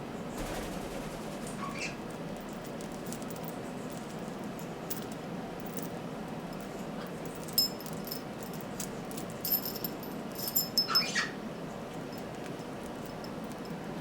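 Stainless steel parrot toy clinking and jangling as an African red-bellied parrot handles it, with a few sharp metallic hits that ring briefly, clustered in the second half. The parrot gives a couple of short squeaks, one early and one around the loudest clinks.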